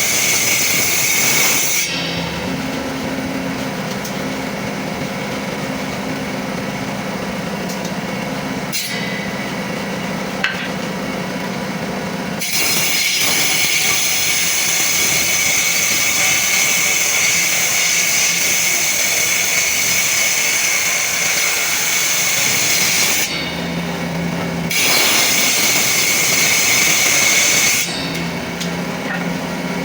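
Electric power tool working wood, its motor running steadily throughout and switching between a lower hum and long, louder stretches of a high whine.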